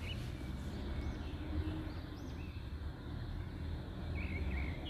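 A low steady rumble, with faint short bird chirps a few times over it.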